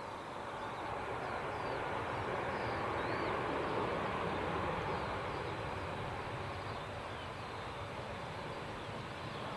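Airbus A320-232 jet engines, IAE V2500 turbofans, a steady rumble that swells to its loudest about three to four seconds in and then eases off a little as the airliner comes in to land.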